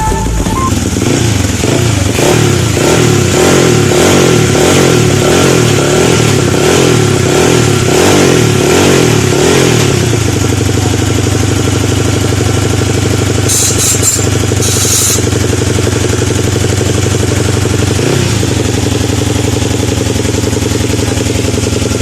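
Honda XRM 125 single-cylinder four-stroke motorcycle engine, upgraded with a four-valve 72 mm cylinder head and a 32 mm carburettor, revved in repeated quick blips for about ten seconds, then settling to a steady idle.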